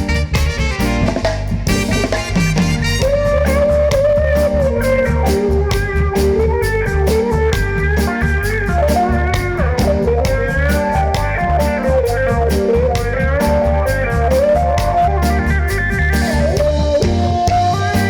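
A live reggae band playing an instrumental passage. A lead melody of held, gliding notes runs over a heavy bass line and drums with a steady hi-hat beat.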